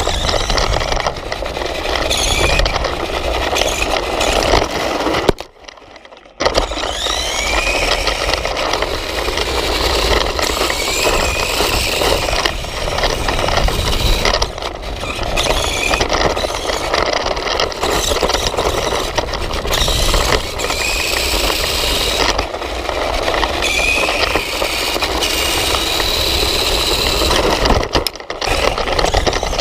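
Electric RC motorcycle driving, heard from a GoPro mounted on the bike: a high motor and gear whine that rises and falls in pitch as it speeds up and slows, over a steady rolling rumble and rattle. The sound drops away briefly about six seconds in.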